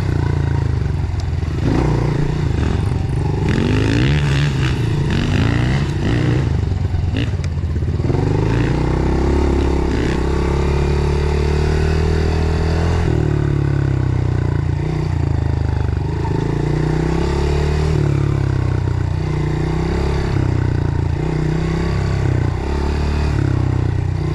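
Dirt bike engine running hard on a trail, its pitch rising and falling repeatedly as the throttle is worked and the gears are changed, with one longer climbing pull about a third of the way in.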